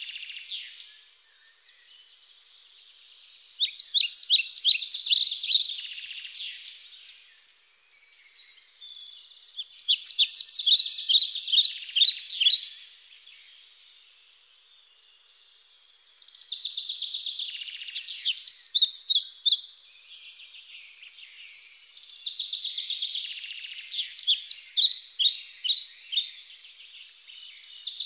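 A songbird singing the same song phrase over and over: each phrase lasts about three seconds, a run of quick, bright notes growing louder, and it comes back about every six seconds, with fainter bird twittering in between.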